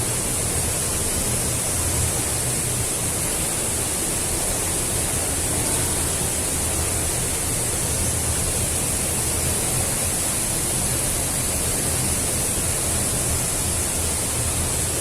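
Waterfall's steady rush of falling water, loud and unbroken.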